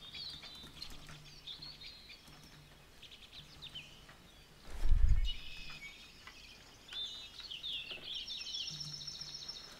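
Faint birds chirping in the background, with short gliding calls coming thick in the second half, and a single dull low thump about five seconds in.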